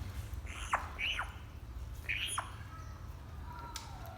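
African grey parrot giving three short whistles, each falling steeply in pitch, two close together in the first second and a third about two seconds in. Near the end there is a faint, slightly falling held whistle.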